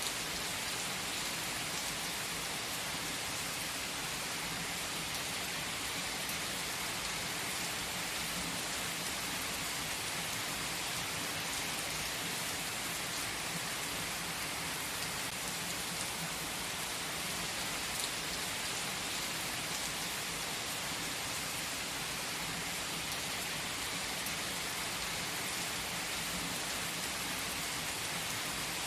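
Steady rain falling, an even hiss that does not change, with one brief click about two-thirds of the way through.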